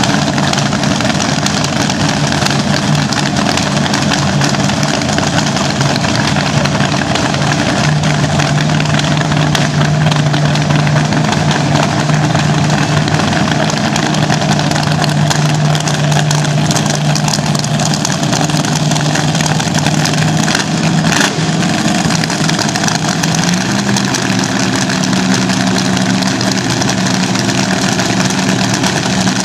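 A vintage drag racing car's engine running very loudly at a steady fast idle, held at near-constant speed, its pitch stepping up slightly about three quarters of the way through.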